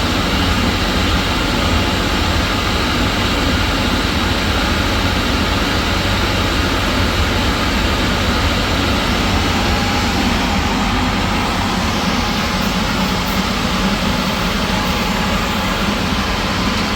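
A heavy machine running steadily: a loud, even, unbroken mechanical noise with a strong low rumble.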